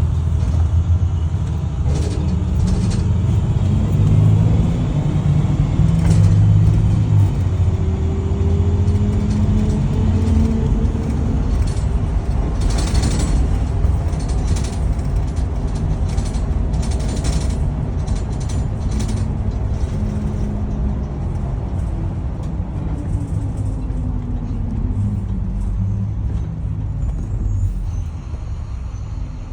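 A 2011 IC CE school bus running on the road with a heavy low rumble, and a whine that rises in pitch early on and slides back down near the end: the rear axle noise. Rattles and knocks come and go over it.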